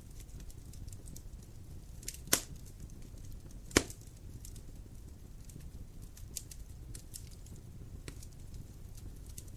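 Wood fire burning with a steady low rumble, scattered small crackles, and two loud sharp pops, about two and a half and nearly four seconds in.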